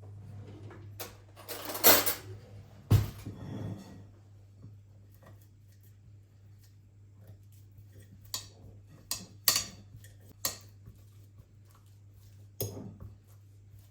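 Kitchen dishes and utensils clinking and clattering as they are handled: a loud clatter about two seconds in, a sharp knock about a second later, then scattered lighter clinks, over a faint steady low hum.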